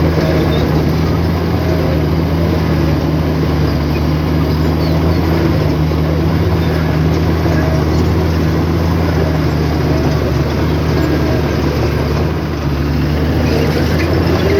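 Diesel engine of heavy earthmoving machinery running steadily at a constant low pitch, with a slight dip in level near the end.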